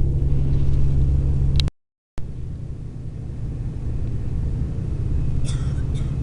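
Inside a long-distance coach on the road: steady low engine and road rumble. The sound drops out for about half a second a little under two seconds in, and there are a few light rattles near the end.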